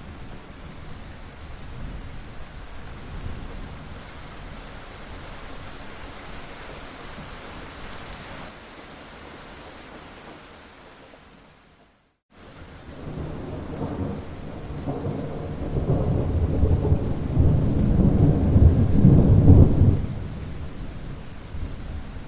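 Steady heavy rain that fades out to a moment of silence about halfway through, then comes back under a long, low rolling rumble of thunder that builds for several seconds and dies away near the end.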